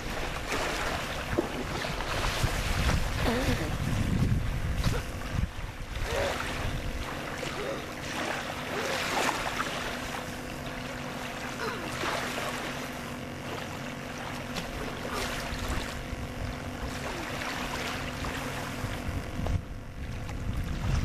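A motorboat engine droning steadily out on the lake, with wind buffeting the microphone for the first several seconds. Faint voices and water noise underneath.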